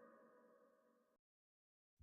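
Near silence: the faint last trace of background music dying away, then dead digital silence for the last part.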